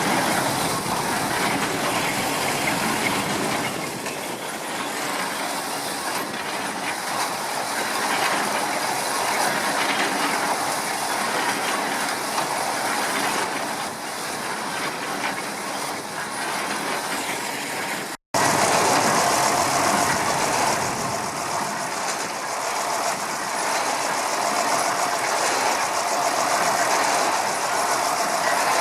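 Vintage stationary engines running with a dense rhythmic mechanical clatter, cutting briefly about 18 seconds in to another engine running.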